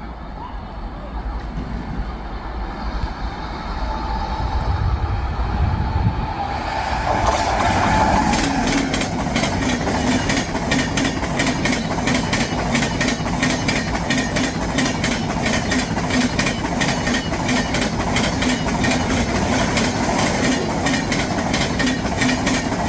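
An Indian Railways Rajdhani Express, hauled by a WAP-7 electric locomotive, approaching and growing louder, then passing at speed from about seven seconds in. The wheels make a fast, continuous clickety-clack over the rail joints, with a steady hum underneath as the coaches go by.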